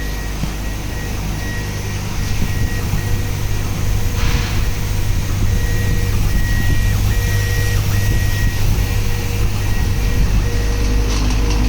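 CO2 laser cutting machine running: a steady low hum that grows louder about two seconds in, with a high whine that keeps switching on and off in short stretches.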